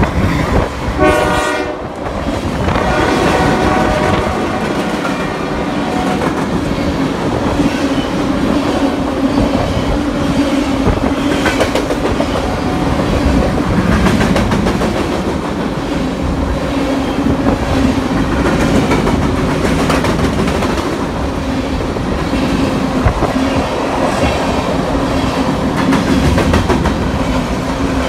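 BNSF diesel locomotive's horn sounding briefly near the start as it passes close by. Then a loaded grain train's covered hopper cars roll past at speed, with a steady rail rumble and a rhythmic clickety-clack of wheels over rail joints.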